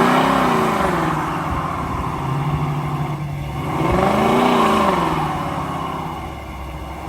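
Car engine revved hard twice, its pitch climbing and falling back each time, with steadier running between the revs.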